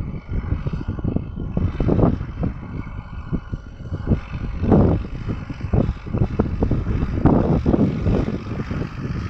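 Wind buffeting the microphone in irregular gusts over a low, steady vehicle rumble from the spraying machine in the field.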